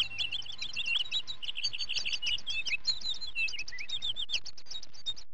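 A dense chorus of small birds chirping, many quick calls overlapping without a break.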